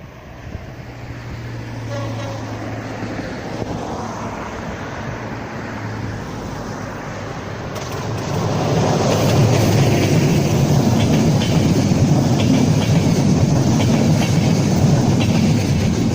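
A train approaching and passing close by, with a low steady hum at first. It grows louder through the first half and is loudest from about eight seconds in, as the wheels clatter over the rail joints in a quick series of clicks.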